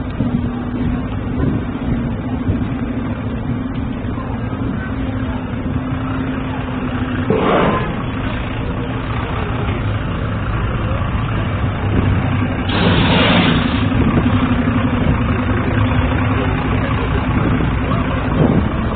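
Street traffic with motor vehicles running. A steady engine hum lasts for about the first seven seconds, and two short noisy bursts come about seven and thirteen seconds in.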